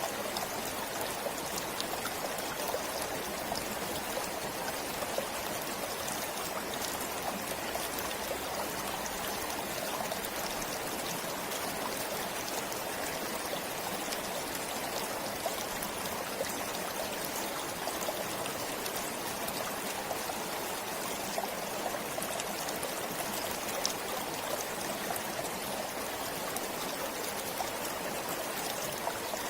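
A forest stream flowing steadily, with water trickling and splashing over stones.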